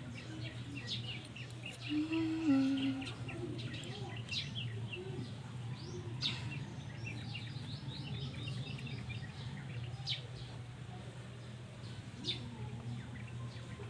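Small birds chirping with many short, high calls throughout, over a steady low hum. About two seconds in, a brief louder low call steps down in pitch.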